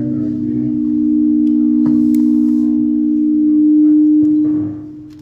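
Public-address system ringing with a steady, low feedback tone, swelling about four seconds in and then fading away near the end.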